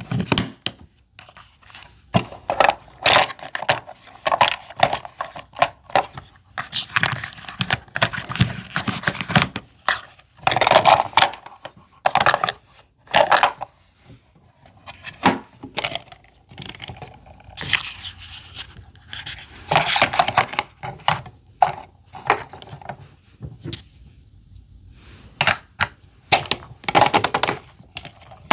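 Small plastic miniature items and their packaging being handled: irregular clicks, taps and scrapes, with short crinkling or tearing bursts now and then.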